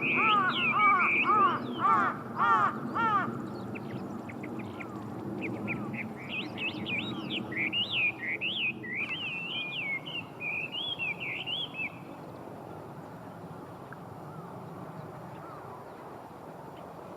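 Birds calling: a quick series of harsh, repeated calls for the first three seconds, then a rapid high twittering chatter from about five seconds in that stops around twelve seconds.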